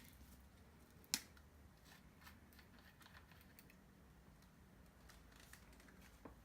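Near silence with small handling noises as a syringe and inkjet ink cartridge are worked: one sharp click about a second in, then a few faint ticks.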